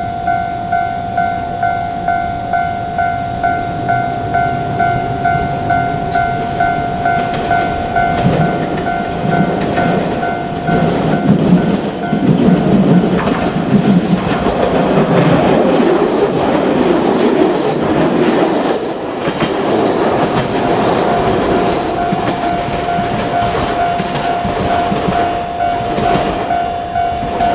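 Japanese level-crossing warning bell ringing in a steady, rapid pulse of about three strokes every two seconds while a JR Kyushu 817-series electric train runs over the crossing. From about eight seconds in to about nineteen, the train's rumble and wheel clacks over rail joints drown out the bell, which is heard again after the train has gone by.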